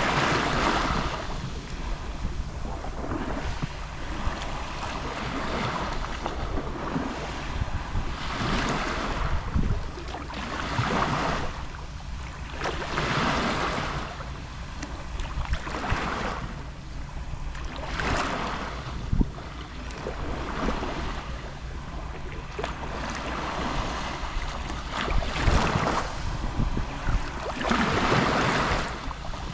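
Small sea waves lapping on a shore, each wash swelling and fading every two to three seconds, over a steady low rumble.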